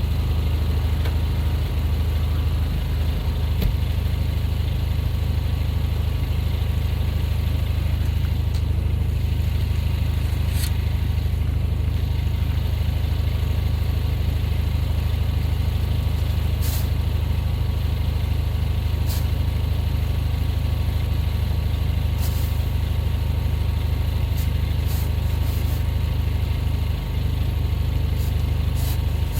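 A vehicle's gasoline engine running steadily at an even speed, a deep hum that holds the same pitch throughout, with a few faint ticks over it.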